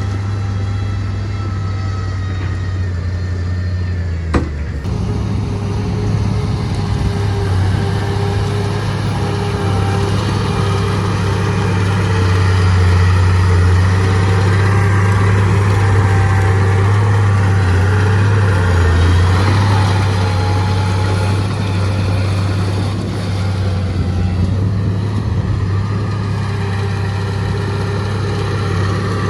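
Heavy construction machine's diesel engine running steadily, louder for a stretch in the middle, with a single sharp knock about four seconds in.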